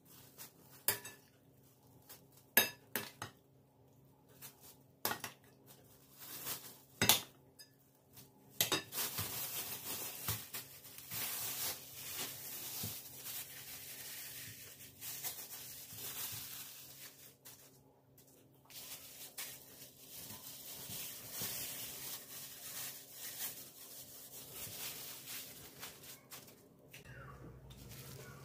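Dishes and cutlery clinking and knocking together in a kitchen, several separate sharp clinks, then a longer steady rushing noise with occasional clinks from about eight seconds in.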